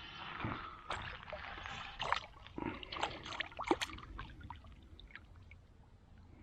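Water splashes, drips and small knocks from a freshly landed small fish being handled at the water's edge. The sounds are busiest in the first four seconds, then thin out to scattered clicks.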